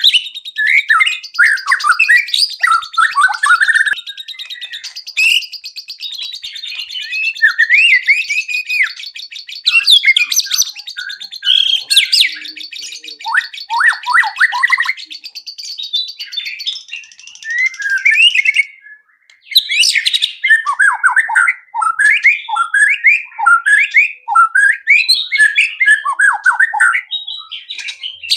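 White-rumped shama (murai batu) singing a long, varied song of rapid falling whistles, chattering notes and a high buzzing trill, packed with mimicked phrases of other birds. It breaks off for a moment about two-thirds of the way through, then carries on.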